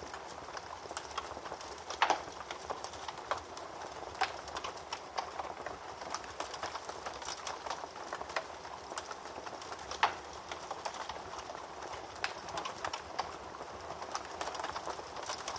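Wood fire burning in a fireplace, crackling: a steady hiss with many small pops, and two louder snaps about two seconds in and about ten seconds in.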